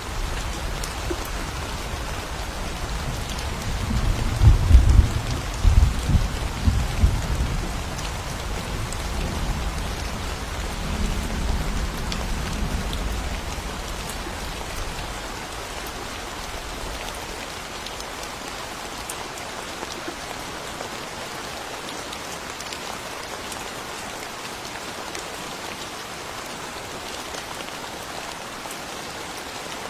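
Steady rain falling, with a long roll of thunder that builds about four seconds in, peaks over the next few seconds, then rumbles away and fades out over about ten seconds.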